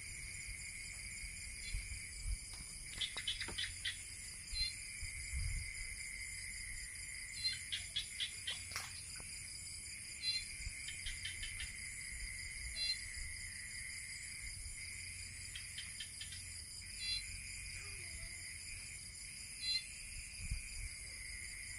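Small rice-paddy frogs (khiat ja) calling in short trains of rapid clicks every few seconds, over a steady high-pitched night chorus of insects and frogs.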